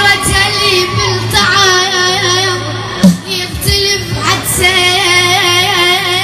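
A young boy singing an Iraqi song in long, wavering held notes, in phrases with short breaks, over a steady low hum.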